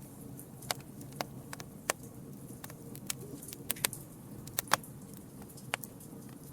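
Campfire burning, with irregular sharp crackles and pops, two of them louder near the middle, over a steady low rumble of the flames.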